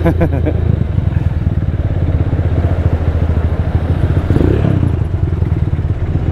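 Rusi Diablo 250cc motorcycle running at a fairly steady speed, its exhaust note coming through a new custom-made Orion muffler.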